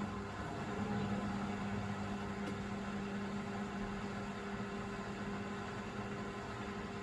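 Hoover VisionDynamic front-loading washing machine draining before its final 1000 rpm spin: a steady mechanical hum from the drain pump and motor, with an even hiss of running water.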